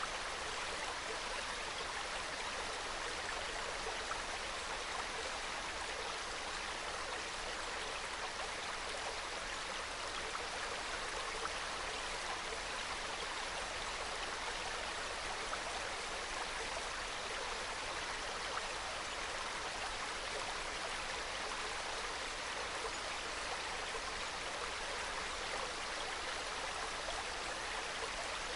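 A small mountain brook flowing and babbling over stones, a steady gentle burble with faint splashes.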